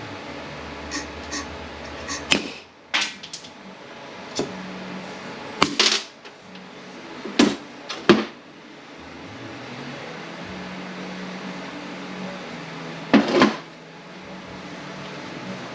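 Hand tools and transmission parts knocking and clinking in separate sharp strikes, about eight spread through, the loudest about six, seven and a half, eight and thirteen seconds in, over a low steady hum.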